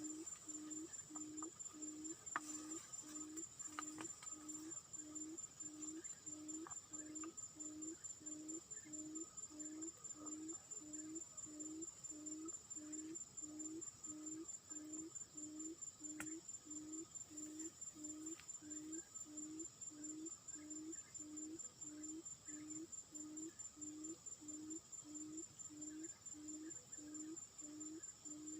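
A low hooting bird call repeated steadily, about once a second, over a continuous high-pitched insect trill.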